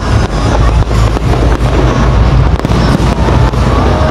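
Aerial fireworks exploding in quick succession: many sharp bangs close together over a continuous low rumble.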